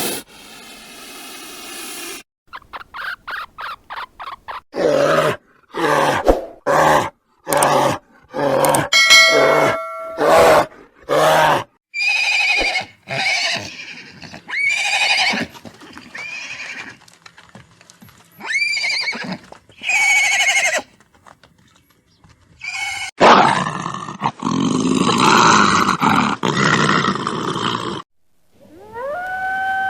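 A quick succession of separate animal calls cut one after another: short pitched cries and arching calls, then a longer rough, noisy call near the end.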